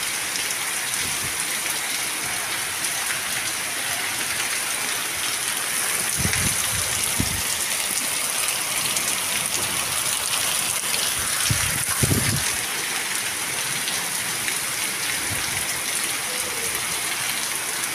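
Heavy rain pouring down onto a flooded cobblestone street, a steady hiss of downpour and runoff water. A couple of brief low rumbles come about six and twelve seconds in.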